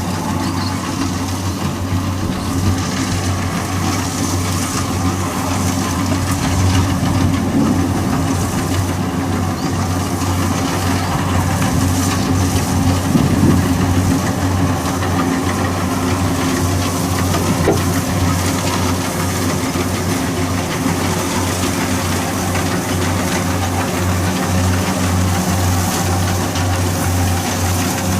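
Kubota DC60 combine harvester's diesel engine and machinery running steadily, with a constant low drone.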